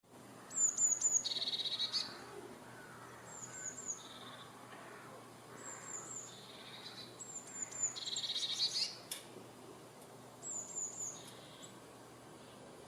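A small songbird singing the same short phrase about five times: a few quick, high, down-slurred notes, then a lower buzzy trill.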